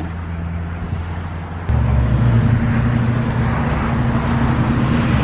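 Honda K20 four-cylinder engine of a Civic EP3 race car running at a steady speed. About a second and a half in it jumps to a louder, higher steady note.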